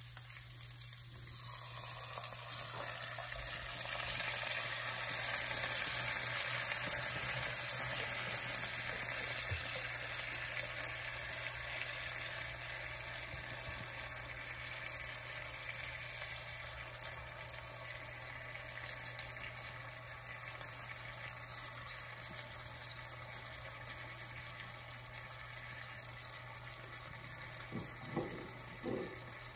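Thin slices of cured pork frying in hot fat in a nonstick pan, a steady sizzle, with tomato passata poured over them from a carton; the sizzle slowly fades as the sauce covers the meat.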